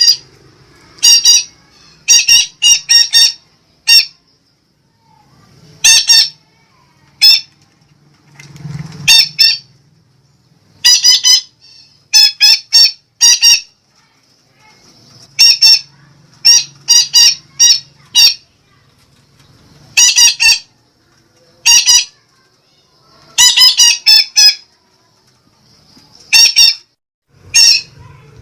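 Sumatran betet parakeet giving loud, short, harsh squawks, singly and in quick runs of two to four, with irregular pauses between them: the betet call used as a lure call.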